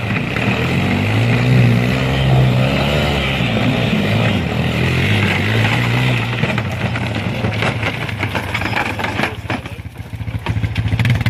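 A vehicle's engine running close by, its pitch wavering a little as it is throttled, with scattered clicks and clatter in the second half and a brief drop in loudness about ten seconds in.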